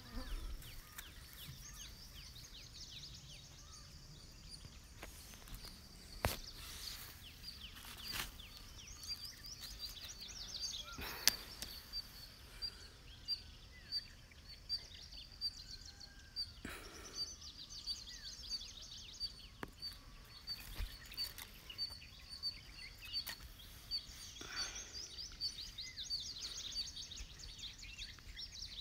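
Faint, high bird chirps repeating about twice a second, over quiet outdoor background. A few sharp knocks or taps break in, the loudest about eleven seconds in.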